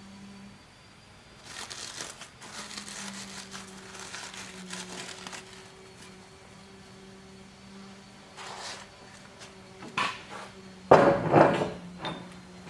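Magnetic-base drill press with an annular cutter humming steadily while it cuts through a steel channel, with a few seconds of grinding scrape. Near the end comes a sharp metal knock, then a loud metallic clatter.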